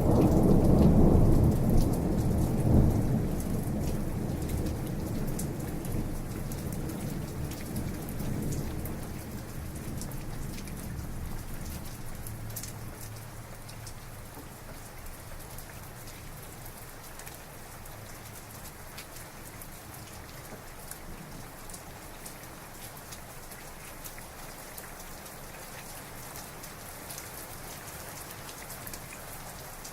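Heavy rain pattering steadily on a surface, with a long roll of thunder that is loudest in the first few seconds and rumbles away over about ten seconds, leaving the rain alone.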